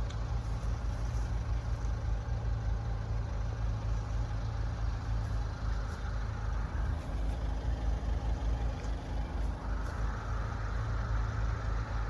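A road vehicle's engine idling: a steady low rumble, with a little more hiss near the end.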